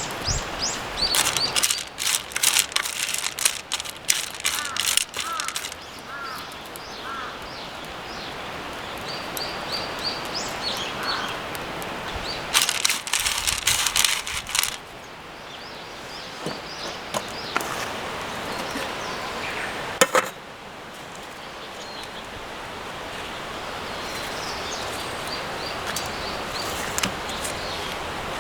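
Outdoor ambience of steady rushing noise with small birds chirping, broken by two spells of rapid crackling clicks and a single sharp knock about twenty seconds in.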